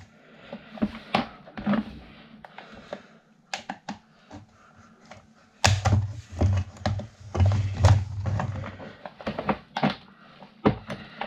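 Irregular plastic clicks, taps and knocks as a screwdriver pries at the snap tabs of a desk fan's plastic housing, with a busier stretch of heavier thumps about halfway through.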